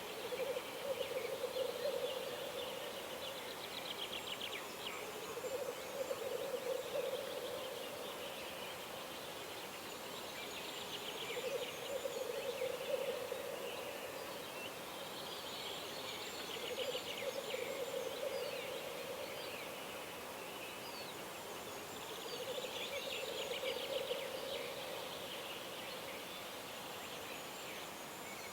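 Birds calling at dawn: a low, bubbling call in phrases of two or three seconds, repeating about every five or six seconds, with higher, rapid trilling song over it.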